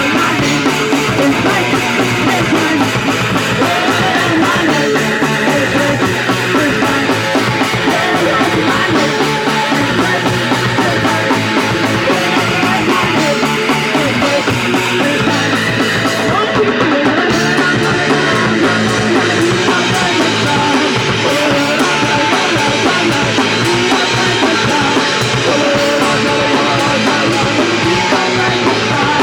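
Punk rock music with guitar and drum kit, playing loud and without a break.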